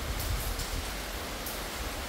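Heavy rain falling steadily: a dense, even hiss with scattered sharper drop ticks over a low rumble.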